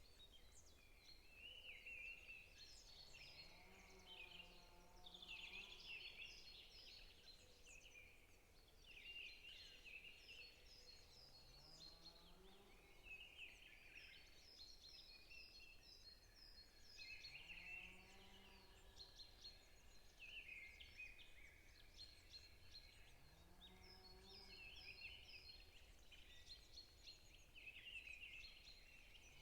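Faint forest birdsong: many small birds chirping and trilling over one another, with a lower, deeper call repeating about every six seconds.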